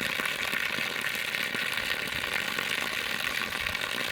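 Water gushing steadily from the discharge of a newly drilled well that is being flushed out until the water runs clear.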